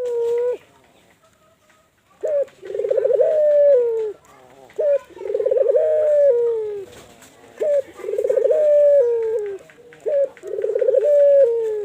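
Local puter (collared dove) cooing. The tail of one call ends just as the sound begins, then four full calls follow about every two and a half seconds. Each is a short clipped note followed by a long rolling coo that falls at the end.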